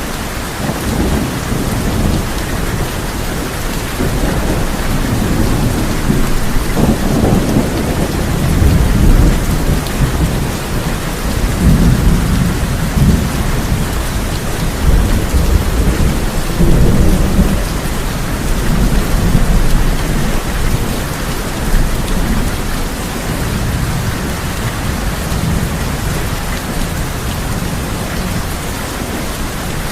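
Steady heavy rain drumming on a tin roof, with rolling thunder that swells several times, strongest in the middle of the stretch.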